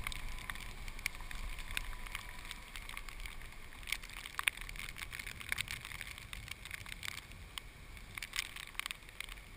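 Faint steady drone of a distant generator, with a thin whine that fades out about two and a half seconds in. Scattered clicks and rattles sound over it.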